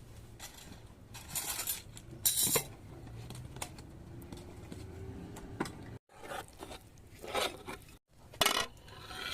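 Hard objects being handled: several short bursts of clinking and clattering over a low steady background.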